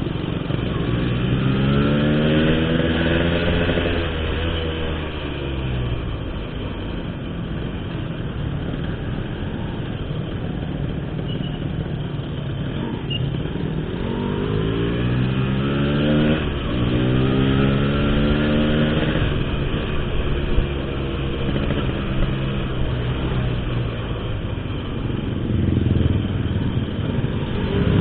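Motorcycle with an Altech C17 aftermarket exhaust running on the road, its exhaust note climbing as the rider opens the throttle and easing back between pulls, several times.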